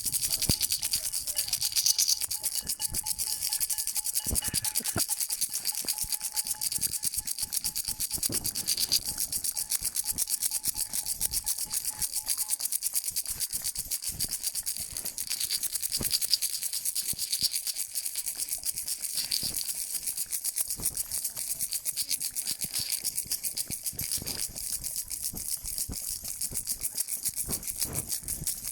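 A hand-held rattle shaken fast and without a break, giving a continuous dense rattling. Scattered louder knocks sound through it, and a faint steady tone runs through the first half, then stops.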